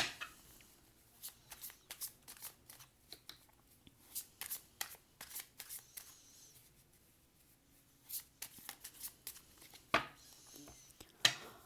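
A deck of tarot cards being shuffled by hand: two spells of quick, irregular card clicks and flicks with a near-silent pause of about two seconds between them.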